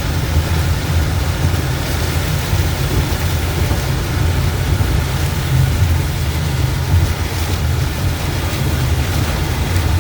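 Service truck driving at highway speed in a heavy rainstorm, heard from inside the cab: a steady low road and engine rumble with rain and wind noise over it.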